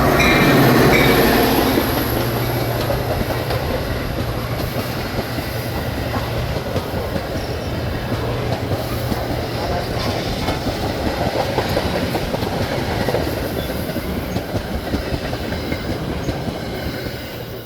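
Metra commuter train passing through at speed, its wheels clattering over the rail joints. It is loudest in the first couple of seconds, holds steady, and fades near the end.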